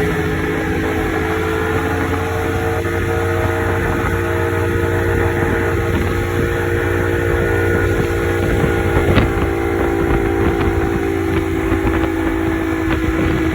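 Motorboat engine running steadily, its hum sinking slightly in pitch, over a constant rushing noise.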